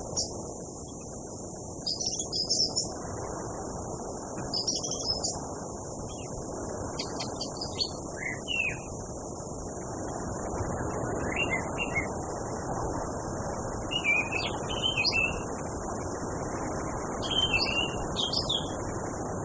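Orange-headed thrush singing short, varied whistled phrases every two to three seconds, over a steady high insect buzz and a low steady hiss.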